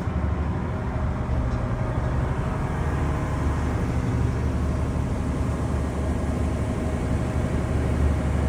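A vehicle engine running steadily with an even low rumble and some road or water noise over it.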